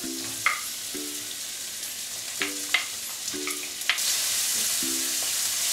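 Chopped onion and garlic sizzling in hot olive oil in a ceramic-lined wok, with sharp taps of a wooden spoon against the pan as it is stirred. The sizzle grows louder about four seconds in.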